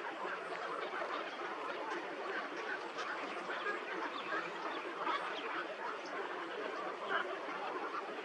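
A flock of birds calling over one another in a dense, continuous chatter of short calls.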